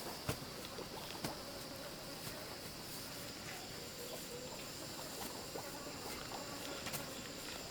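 Steady high-pitched insect drone with scattered light knocks and taps, the sharpest about a third of a second in.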